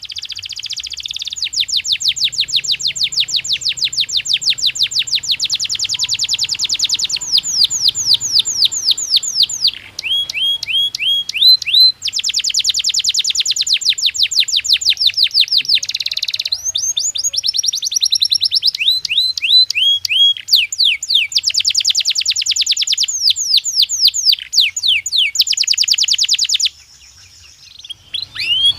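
Domestic canary singing: long rolls of fast, evenly repeated high notes, each run made of quick sweeping syllables that switch to a new note type every few seconds. There is a brief break about ten seconds in and a short pause near the end.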